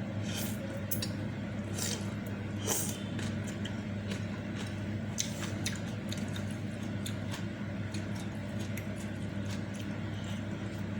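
Close-miked eating of meatball soup and noodles: wet chewing and smacking with scattered sharp clicks, over a steady low hum.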